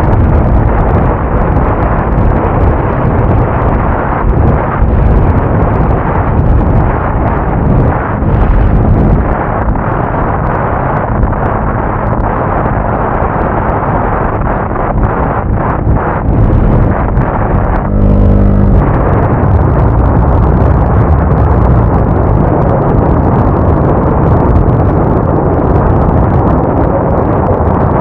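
Motorcycle riding at speed: the engine's low hum under heavy wind buffeting on the microphone, with a brief change in engine note about two-thirds of the way through.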